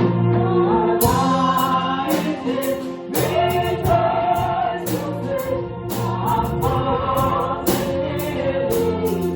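Congregation or choir singing a hymn over organ or keyboard accompaniment, with a steady beat.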